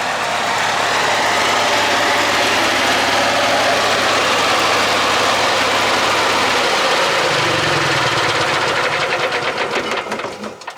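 An engine running steadily, then slowing down and shutting off near the end, its separate firing strokes audible as it winds down.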